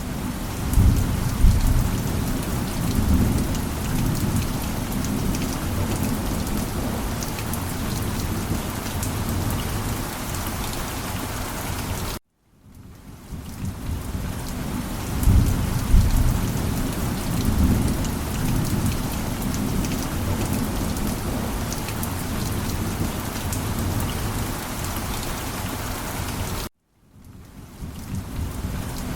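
Heavy rain falling steadily, with low rolling thunder rumbles swelling a couple of times. The sound cuts out abruptly twice, about 12 s and 27 s in, and fades back in each time, the joins of a looped rainstorm recording.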